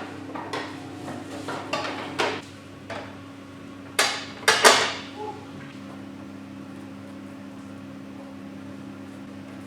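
Hand tools and metal parts clicking, tapping and clinking as a small motorcycle is being assembled, with a few sharp metallic knocks, the loudest about four to five seconds in, over a steady low hum.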